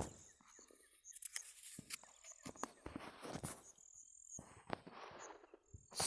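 Near silence, broken by faint scattered clicks and brief soft rustles of background noise.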